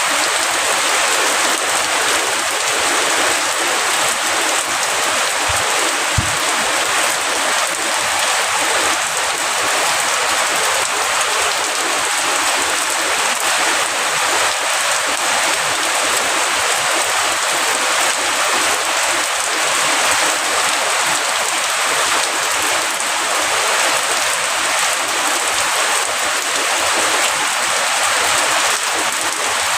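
Heavy rain falling steadily, a dense, even hiss of drops on surfaces, with one brief low click about six seconds in.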